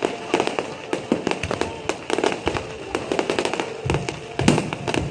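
Fireworks bursting overhead in quick, irregular succession, sharp bangs and crackling, with a heavier, deeper boom about four seconds in.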